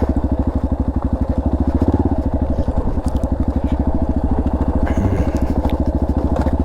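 Dirt bike engine running steadily with an even pulsing beat. A few faint clicks of stones under the tyres come about five seconds in.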